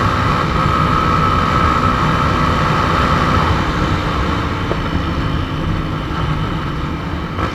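Motorcycle engine running on the road with wind rushing over the microphone. A steady whine fades about halfway through and the overall level eases off a little.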